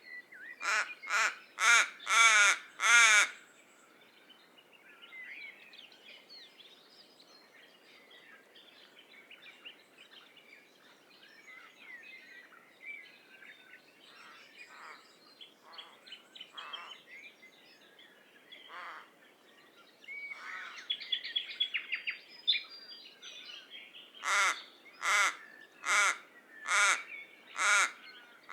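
Common raven calling in quick series of harsh, pitched calls, about five near the start and about six more near the end. Fainter chirps of other birds fill the gap between the series.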